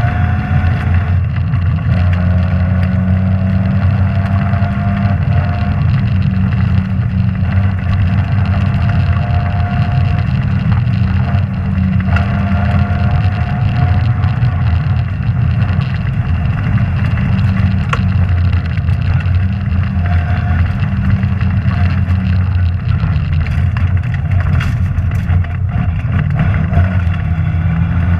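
Rally car engine running hard at high revs inside the cabin, its pitch climbing and dropping back again and again through the gear changes, with knocks and rattles from the car on the stage surface.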